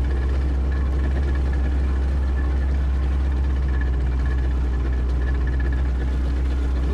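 Boat engine idling: a steady low hum that holds an even level throughout.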